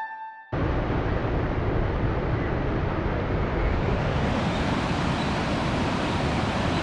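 Rushing water of river rapids or falls: a steady, dense roar that starts abruptly about half a second in and holds an even level throughout.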